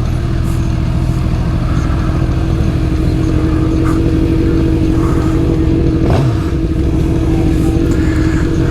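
Suzuki GSX-R750 inline-four engine running at a steady pitch, with a short knock about six seconds in.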